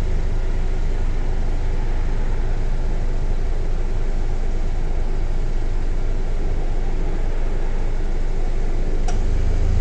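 Steady low rumble of an idling car engine with an even hiss over it, unchanging throughout. A single light click near the end.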